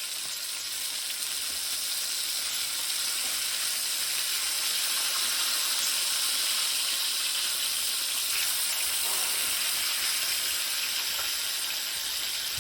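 Food frying with a steady sizzle.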